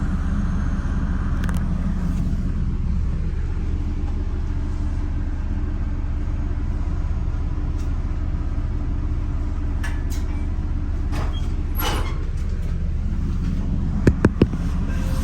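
Steady low hum and rumble inside a Metra bi-level commuter car standing at a station, with a few faint clicks and, near the end, three quick sharp knocks.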